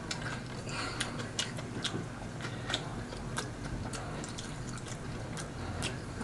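A person chewing a mouthful of food with the mouth closed, with irregular wet smacking clicks.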